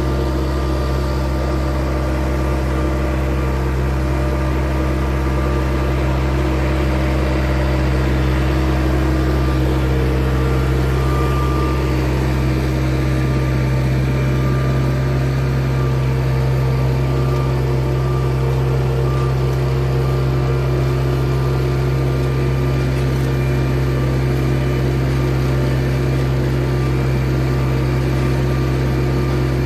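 Tractor diesel engine running steadily at a constant speed while disc ploughing, with a deep, even engine note.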